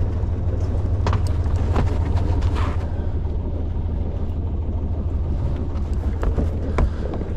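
Sailing yacht's auxiliary engine idling steadily in neutral, a low steady hum, with a few short knocks scattered through it.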